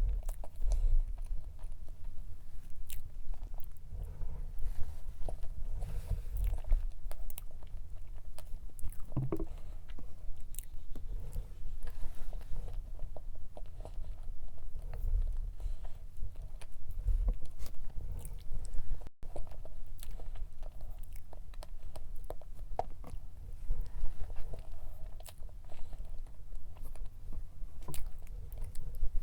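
Close-miked chewing and biting of strawberry cream cake, with many small wet mouth clicks throughout.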